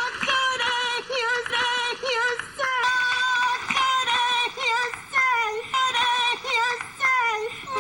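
A high-pitched, synthetic-sounding singing voice, chopped into short, near-identical phrases that repeat over and over, some ending in a downward pitch slide.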